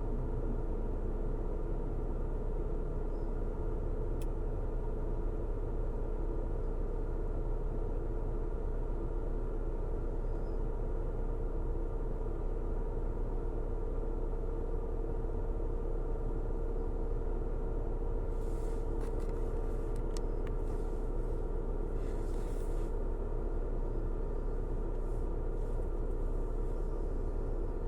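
Car driving steadily along a road: a constant low engine hum and road rumble with a few steady tones. A few faint, brief hissing sounds come about two-thirds of the way through.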